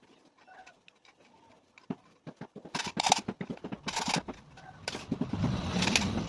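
Yamaha EZ115's engine cranking in a quick run of short pulses, then catching about five seconds in and running with a steady low exhaust note through an aftermarket Akrapovic bullet silencer.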